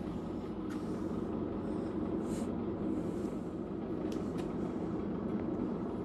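Steady low hum and rumble of a commercial bar refrigerator's condensing unit (compressor and condenser fan) running after start-up, with a few faint ticks.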